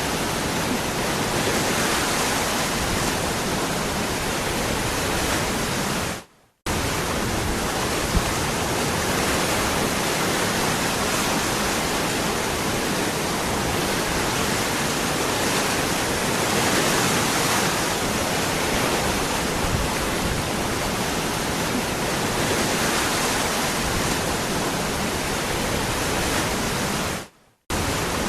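Waterfall: a steady, full rush of falling water. It cuts out to silence for under half a second twice, about six seconds in and again near the end.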